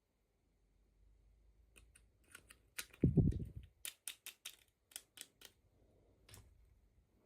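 Small plastic parts and packaging of a miniature doll set being handled, making a quick run of sharp clicks and taps. A single dull thump comes about three seconds in.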